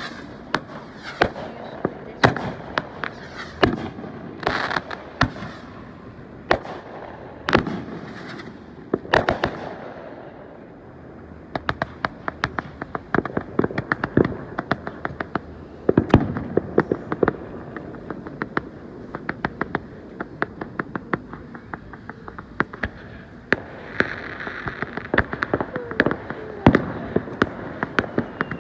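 Fireworks going off: a string of sharp bangs and booms, and from about eleven seconds in, long runs of rapid crackling.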